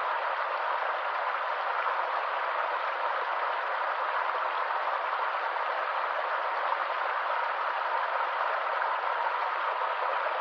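A stream running: a steady, unbroken water noise whose level does not change.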